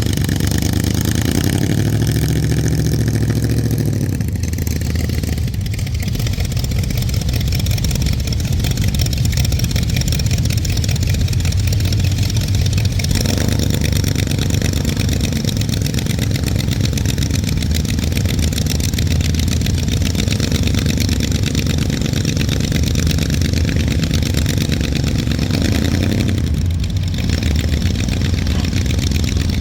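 Car engine running loudly, with its pitch rising and falling about one to four seconds in as it is revved, then settling back to an idle.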